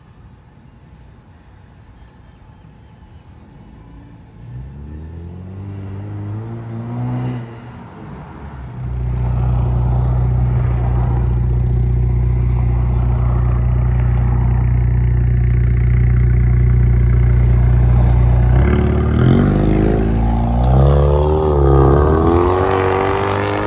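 2016 Ford Mustang 2.3-litre EcoBoost turbo four-cylinder running through a straight-pipe exhaust, its mufflers and resonator removed and the catalytic converter kept. It idles quietly at first, revs up about five seconds in, then holds a much louder steady drone from about nine seconds in, with several revs rising and falling near the end.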